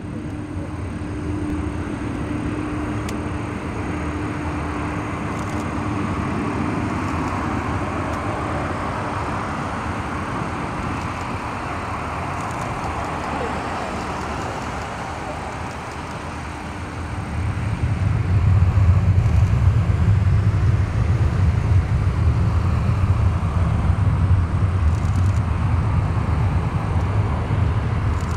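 Jet engine noise of a four-engine Boeing 747-400 on its takeoff run: a steady rushing with a faint hum in the first seconds, then growing louder with a deep rumble about seventeen seconds in.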